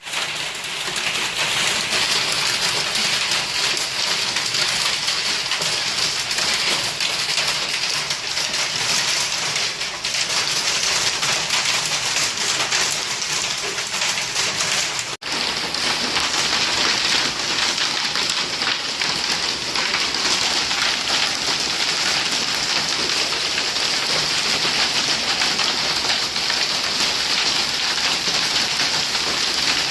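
Heavy rain and hail from a hailstorm beating down steadily in a dense hiss, with a brief break about halfway through.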